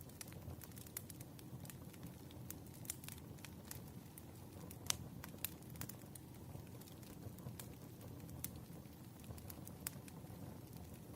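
Wood fire crackling: irregular sharp pops and snaps over a low, steady rumble of burning logs, with one louder pop about five seconds in.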